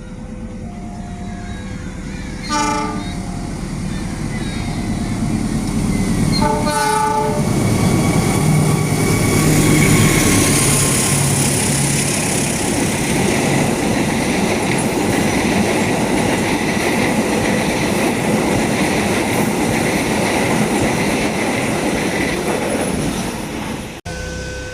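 Level-crossing warning alarm sounding two alternating tones, then a train's horn blows two short blasts, about 2.5 and 7 seconds in. The train then passes over the crossing loudly, its wheels clattering on the rails.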